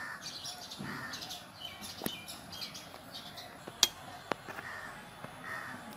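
Small birds chirping and tweeting, with a few sharp clicks, the loudest about four seconds in, as a metal ladle knocks against the cooking pan.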